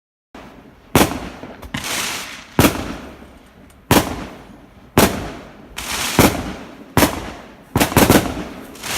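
Fireworks going off: about eight sharp bangs at roughly one-second intervals, each followed by a fading crackling hiss.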